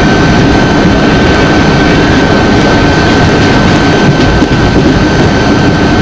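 Loud steady rumble and rush of a moving train, heard from on board, with a thin steady high whine over it.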